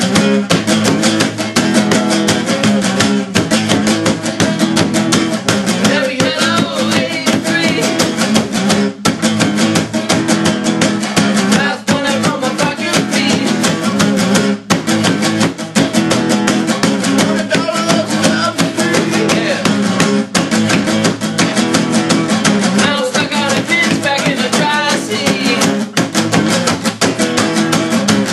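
A rock band playing a guitar-driven song with a fast, steady beat, without vocals.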